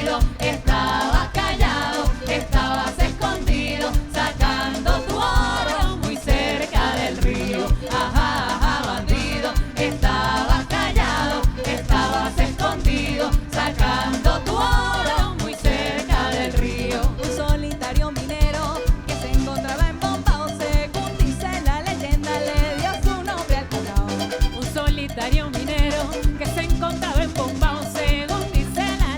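Live band music with a steady beat, strong accented hits about twice a second over bass and moving melodic lines.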